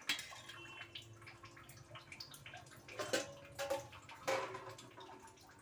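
Faint kitchen handling sounds as cooking oil is drizzled over layered rice in a pot: light drips and taps, with a few louder knocks about three and four seconds in.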